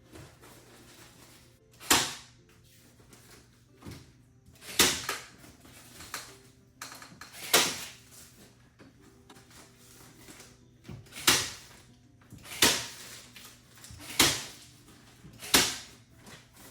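Seven sharp knocks at irregular intervals of one to four seconds, each trailing off briefly, over faint background music.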